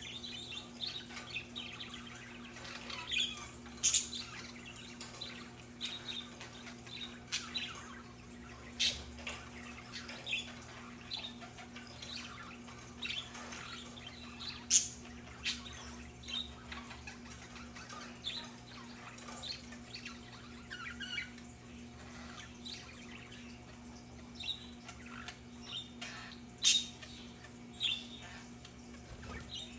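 Budgerigars chattering, with a continuous run of short chirps and warbles and several sharper, louder squawks scattered through.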